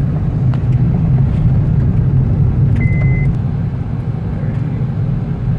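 Steady low rumble of a moving vehicle on the road, with a short high beep about three seconds in.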